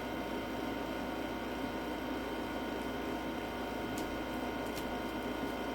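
Steady electrical hum and hiss of room noise, with a few faint short ticks about four seconds in and again near five seconds.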